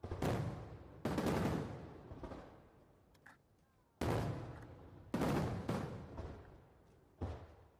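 Aerial firework shells bursting high overhead: about five loud booms at uneven intervals, each dying away over a second or so, with a few fainter pops in between.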